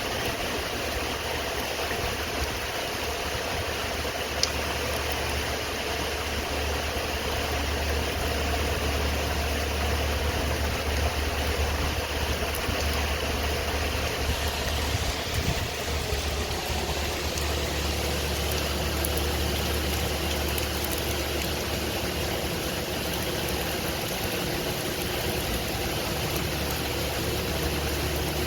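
A car engine running with a steady low hum under an even hiss of rain.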